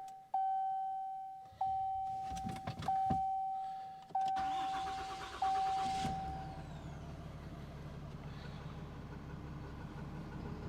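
The truck's warning chime dings at a steady pace about every second and a half while the Cummins diesel is turned over; the starter cranks for a couple of seconds, the engine catches about six seconds in and settles into a steady idle.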